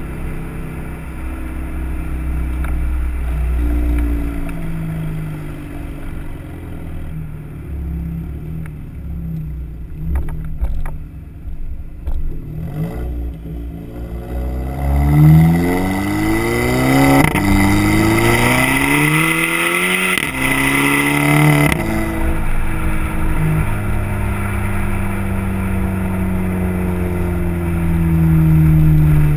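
2008 Volkswagen GTI's turbocharged four-cylinder engine, fitted with a K04 turbo upgrade and an AWE cat-back exhaust, cruising and then pulling hard about halfway through: the revs climb, drop at a gear change, climb again and drop at a second shift before settling back to a steady cruise.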